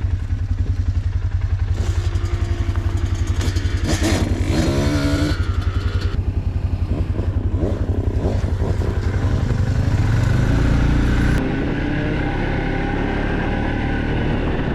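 Small off-road vehicle engine idling close by, a steady fast chugging beat; its note shifts slightly about eleven seconds in.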